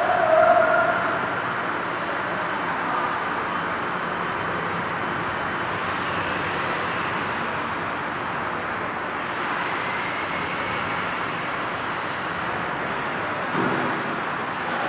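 Steady machining noise from a double-column CNC engraving-milling machine running with two spindles, with a faint high whine that comes and goes. A dog yelps once right at the start, and there is a short low thump near the end.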